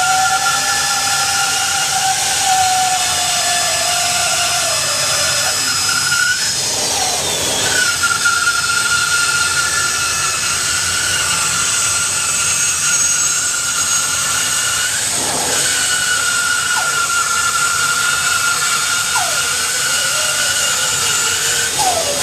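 Bandsaw with a 1/2-inch 4 TPI hook blade resawing a 1-inch hardwood board lengthwise: a steady running whine with cutting noise, the pitch shifting and breaking twice as the board is fed through.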